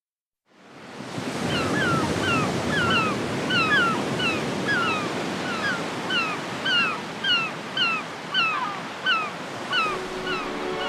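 Surf washing steadily, fading in at the start, with birds giving short repeated chirping calls, about two a second, over it. A low held music note comes in near the end.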